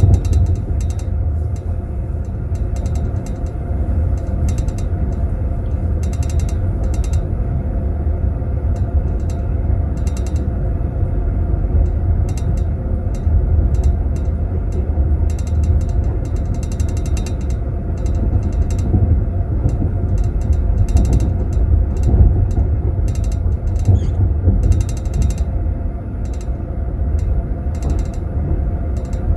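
Teaspoons rattling and clinking in tea glasses in their holders, many quick irregular clinks, over the steady low rumble of a passenger train compartment in motion.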